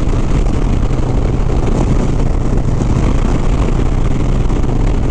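Harley-Davidson Sport Glide's V-twin engine running steadily at highway speed, with a constant rush of wind noise.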